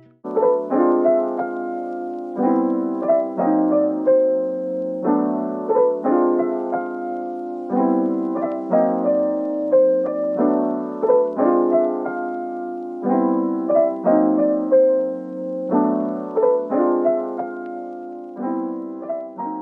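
Background music: a gentle piano piece playing repeated broken chords in a steady rhythm.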